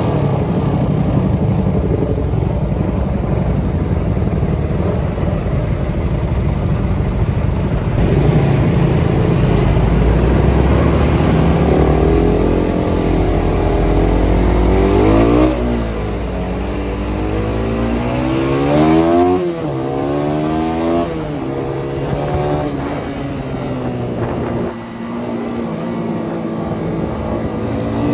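Suzuki Satria FU 150 single-cylinder engine running through a CBU Thailand exhaust. Its pitch climbs and drops several times in the middle.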